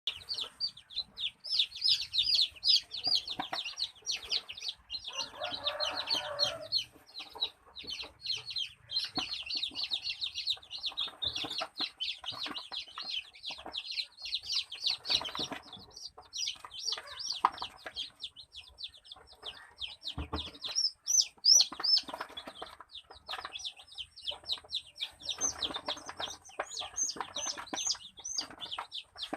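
A large brood of newly hatched kampung chicks peeping, a dense, unbroken chorus of short high cheeps.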